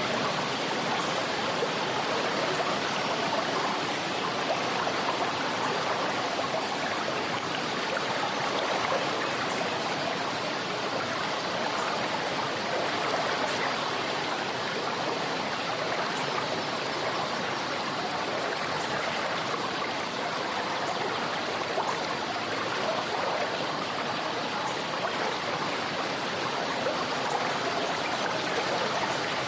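River flowing: a steady, even rush of running water with no pauses or changes.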